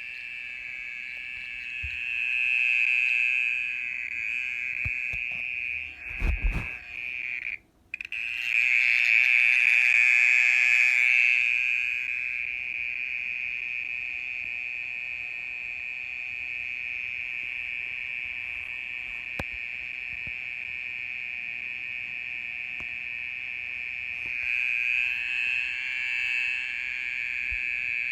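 A mole cricket singing: one continuous, unbroken high trill that swells louder a few times, loudest about a third of the way in. A low thump around a quarter of the way in, with the sound cutting out for a moment just after it.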